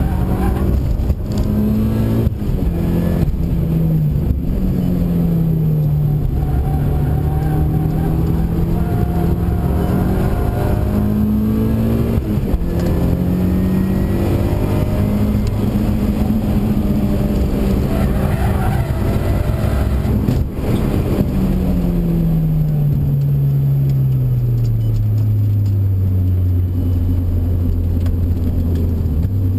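Mitsubishi Lancer Evolution's turbocharged four-cylinder engine, heard from inside the cabin under hard track driving. The note climbs and drops repeatedly with the gear changes, then falls steadily as the car slows near the end.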